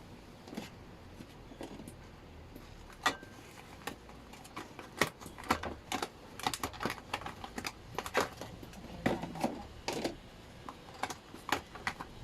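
Irregular light clicks and taps of things being handled, a few at first and then many close together from about three seconds in.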